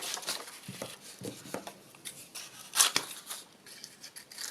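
Scissors snipping through paper in a few separate cuts, trimming away excess paper; the loudest snip comes about three seconds in.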